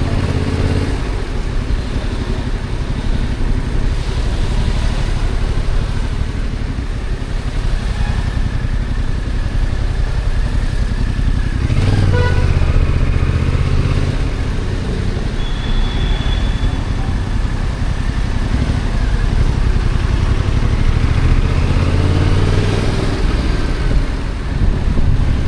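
Stock Yamaha XSR700's parallel-twin engine running as the motorcycle is ridden, picking up revs about twelve seconds in and again near the end.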